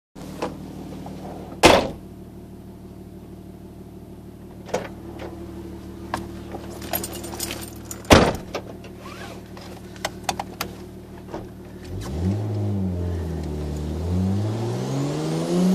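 Nissan Skyline R33 GTS-T's turbocharged straight-six idling steadily, heard from inside the cabin, with two loud knocks about two and eight seconds in and a scatter of small clicks between. About twelve seconds in the revs climb, dip and climb again as the car pulls away.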